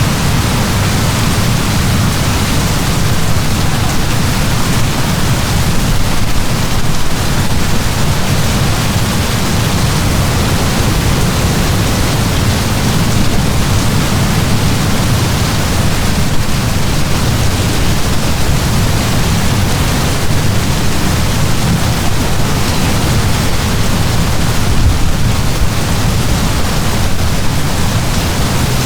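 Heavy rain pouring down steadily: a dense, even hiss over a strong low rumble, with no breaks.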